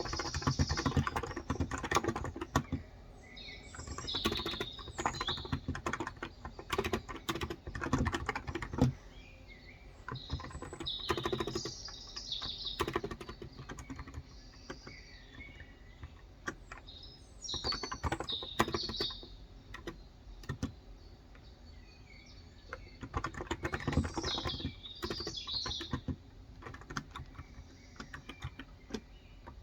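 Typing in bursts on a Cox Endeavor tenkeyless keyboard with 35 g contactless (electrostatic capacitive) switches: runs of quick key clicks with pauses of a few seconds between them. Birds chirp in the background.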